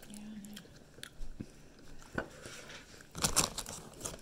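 Close-up chewing and crunching of food, scattered small clicks with a louder crunchy burst about three seconds in.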